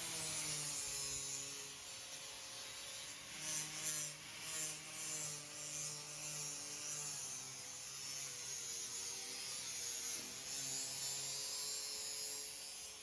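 Electric power tool motor running steadily with a hum and a high hiss, its pitch drifting slightly as the load changes, with a few louder surges about four seconds in.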